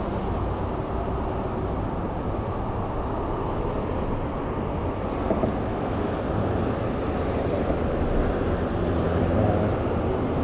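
A car driving along the road: steady engine and tyre rumble, growing slightly louder near the end.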